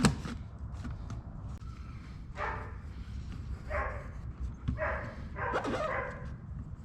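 A dog giving short barks or yips, four or five of them spread a second or so apart, over a steady low background hum.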